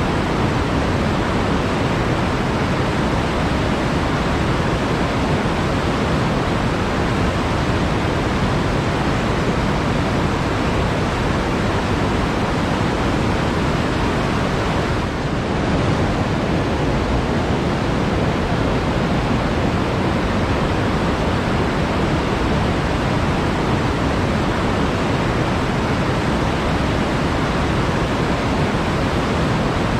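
Flowing water rushing steadily, an even noise with no distinct splashes, dipping slightly for a moment about halfway through.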